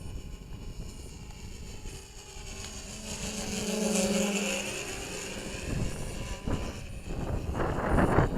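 Tri-copter's electric motors and propellers whining as it flies past, growing louder to a peak about four seconds in and then fading. Wind buffets the microphone near the end.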